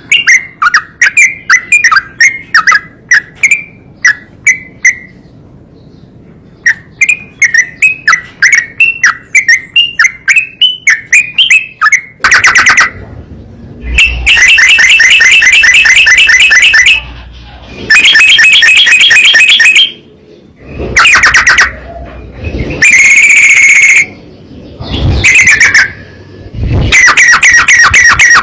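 Trucukan (yellow-vented bulbul) song: rapid repeated chirping phrases with a short pause, then from about halfway much louder, distorted bursts that clip.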